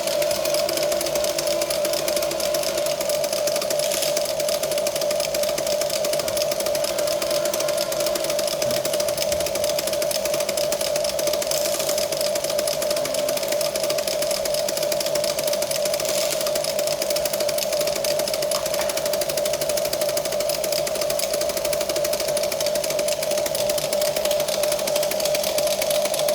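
Huina radio-controlled toy excavator running, its small electric motors giving a steady high buzzing whine that holds at one pitch throughout.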